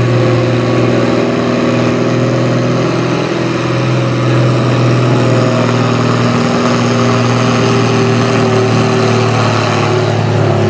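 Pulling farm tractor's engine running loud at high speed with a steady pitch.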